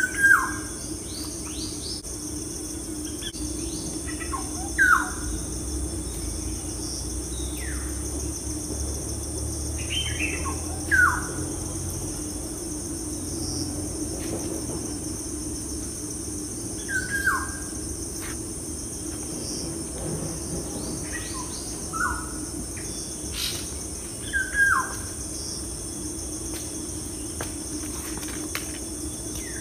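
Bird calls, a short falling chirp every few seconds, over a steady high insect-like chirring and a low steady hum.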